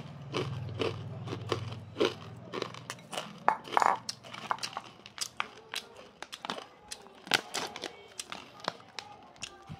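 Close crunching and chewing of crunchy fried spicy corn kernels, with many sharp, irregular crackles.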